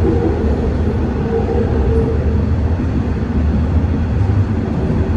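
TTC Line 4 subway train running between stations, heard from inside the car: a steady, even rumble of wheels on rail and traction motors.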